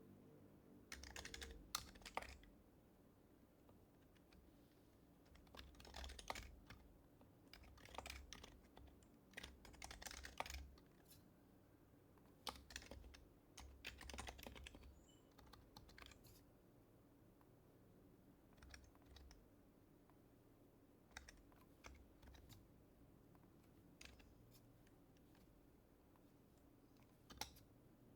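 Typing on an HHKB Type-S keyboard with silenced Topre switches: soft, muffled key clicks in short bursts with pauses between them, busiest in the first half and sparse after.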